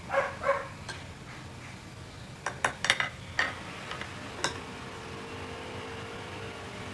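Crisp crunching of raw vegetables being bitten and chewed close to the microphone. There are two crunches right at the start, a quick cluster about halfway through, and one more a second later.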